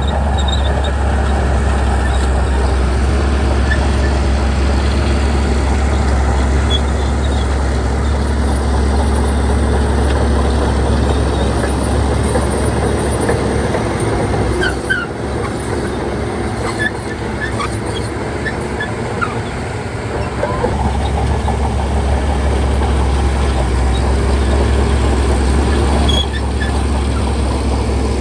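A bulldozer's diesel engine running under load with a steady, deep rumble. Around the middle it eases off for a few seconds, then builds back up.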